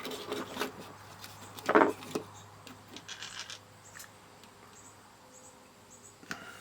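Small clicks and rubbing as the opened plastic case and parts of a digital multimeter are handled on the bench, with one louder clatter a little under two seconds in. A faint steady hum lies underneath.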